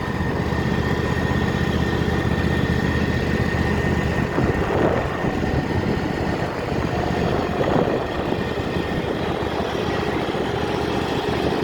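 Vehicle engine running steadily while being driven slowly, a low even drone with a faint high whine over it.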